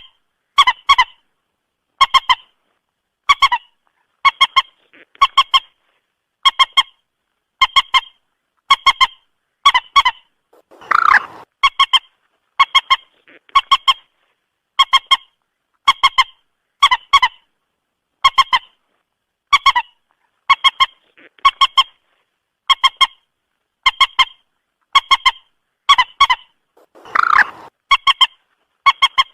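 Common moorhen calls: short, sharp, honking notes in quick pairs, repeated at a very even pace about every second. A longer, harsher call comes twice, about a third of the way through and near the end.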